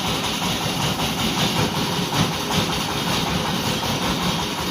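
An engine running steadily at idle with a low, even rumble.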